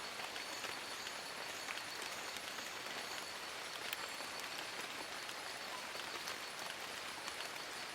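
Steady rain falling on forest leaves: an even hiss, dotted with many small, sharp drop ticks. A faint steady high-pitched tone runs underneath.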